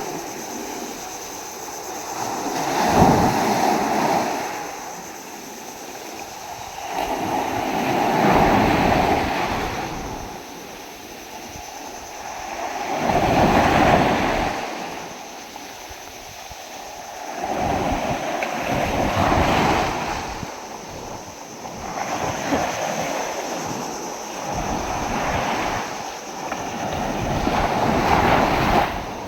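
Storm surf from a typhoon: big waves breaking and rushing in, a loud rushing roar that swells and fades in surges every five or six seconds.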